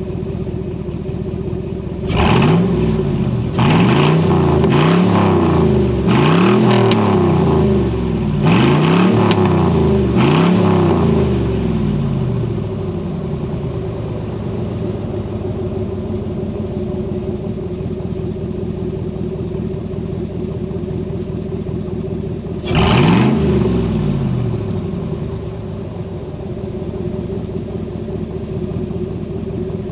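Chevrolet Suburban 2500's 8.1-litre big-block V8 running with an open exhaust behind the catalytic converters, muffler and tailpipe removed. It idles, is revved in five quick blips starting about two seconds in, settles back to idle, and is given one more rev about 23 seconds in.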